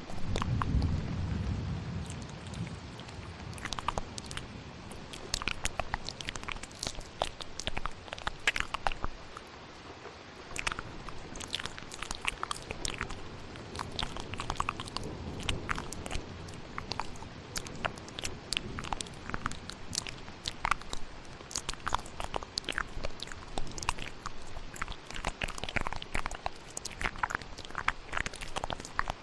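Close-miked ASMR mouth sounds: a dense, irregular run of wet clicks and smacks, layered over a steady hiss of rain. A low rumble of thunder fades out over the first few seconds.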